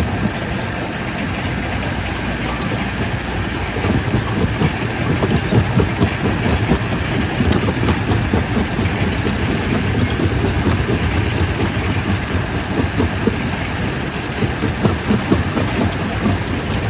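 Quarry primary rock crusher running under load: a steady heavy mechanical rumble with a dense, irregular clatter of rock cracking and knocking in the crusher, getting busier and louder about four seconds in.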